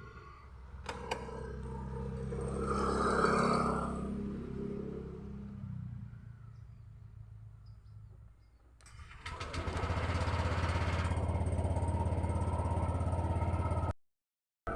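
Motor vehicle engine running: one swells and fades about three seconds in, then an engine hums steadily from about nine seconds in until the sound cuts off suddenly near the end.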